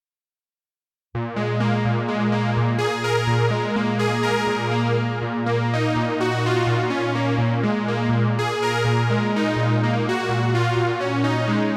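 Cherry Audio P10 software polysynth playing a Deep House preset. After about a second of silence, sustained chords sound over a steadily repeating bass note.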